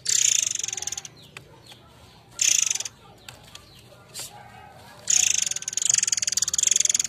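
Murai air songbird giving harsh, rapidly pulsed rattling trills. There are three bursts, the last and longest lasting about two seconds, over faint twittering in the background.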